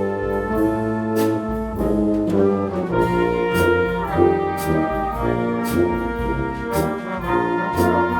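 High school band playing live, led by brass: sustained chords over a bass line, with regular percussion hits.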